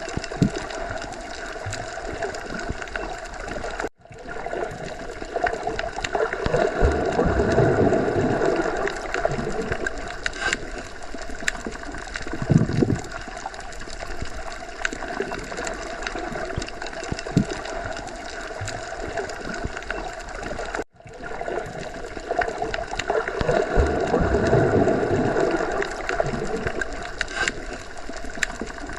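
Underwater ocean ambience: a steady, muffled wash of water noise that slowly swells and eases, with a few low surges. It cuts out very briefly twice, about 4 seconds in and about 21 seconds in.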